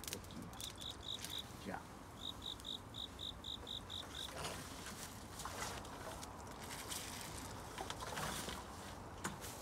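A high, even insect chirp repeated about five times a second for a few seconds, then rustling and scattered clicks.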